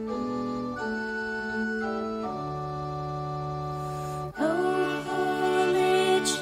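Organ playing slow held chords of a hymn tune, changing every second or so. About four seconds in, a louder melody line with vibrato comes in over the organ.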